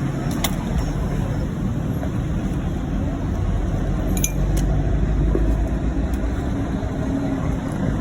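Street traffic noise, a steady low rumble of passing vehicles, with a couple of short clinks about half a second in and again about four seconds in.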